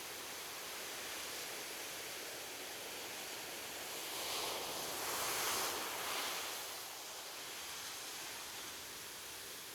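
Ocean waves on a beach: a steady wash of surf, with one wave breaking and washing in more loudly from about four to seven seconds in.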